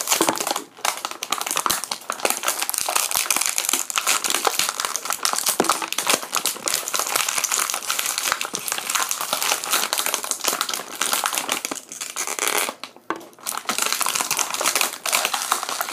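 Plastic blister packaging crinkling and crackling as small toy figures are pushed out of their trays, almost without pause, with a brief lull near the end.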